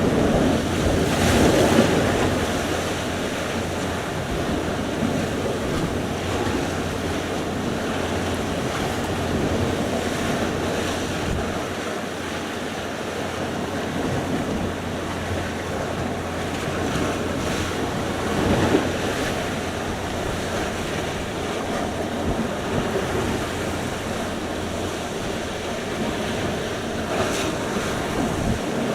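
Sea surf: waves breaking and washing in as a steady rush, with louder surges about a second and a half in and again about halfway through. Wind on the microphone adds a low rumble.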